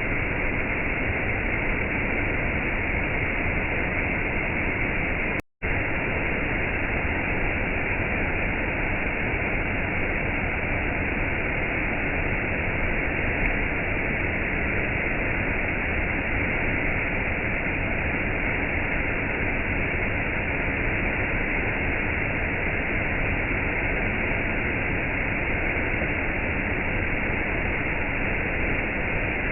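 Steady rushing water noise of gentle rain and a waterfall, even and unbroken except for a momentary dropout to silence about five and a half seconds in.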